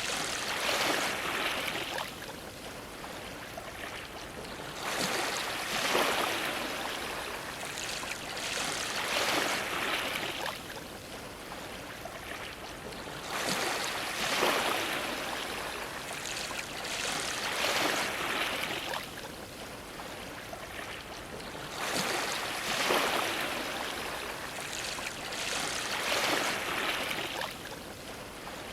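Ocean waves washing against a dock. The water noise swells and falls back every few seconds.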